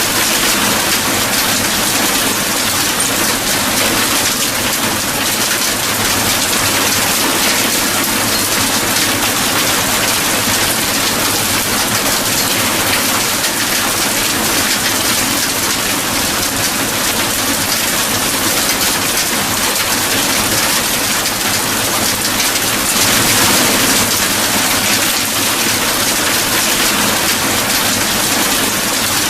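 Steady heavy rain falling, a dense even hiss of drops with no break, slightly louder for a moment about two thirds through.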